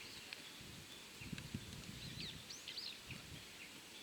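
Birds chirping, a cluster of short quick high notes in the middle, over a faint steady outdoor background with scattered low rumbling bumps.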